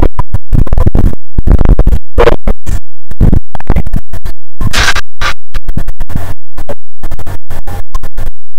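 Harsh, overdriven audio that stutters and breaks up, cutting in and out many times a second with sudden gaps. It is a badly distorted, garbled recording that is loud throughout.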